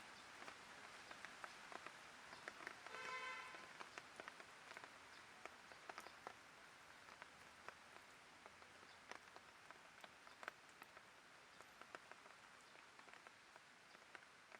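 Light rain falling, faint and even, with many scattered drops ticking. A brief pitched sound cuts through about three seconds in.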